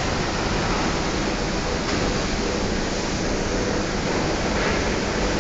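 Automatic feed-packing machine running, a steady, even mechanical hiss and rumble with no clear rhythm.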